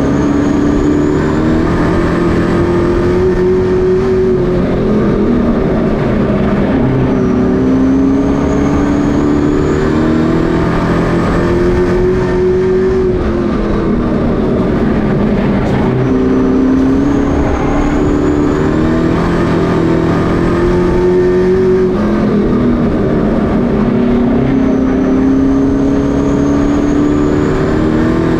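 Pro Truck race engines running laps on a short oval: the engine note climbs under throttle, then drops back as they lift off, repeating about every eight seconds, with a faint high whine rising along with each climb.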